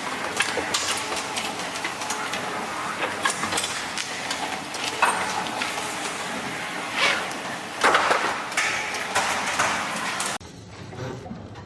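Machinery running with irregular clattering knocks and clicks over a steady noise. About ten seconds in it cuts to a quieter sound.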